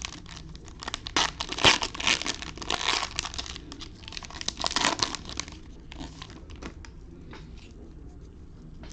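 Plastic wrapper of a 2021 Optic basketball retail card pack being torn open and crinkled: dense crackling for about five seconds, then a few light clicks and rustles.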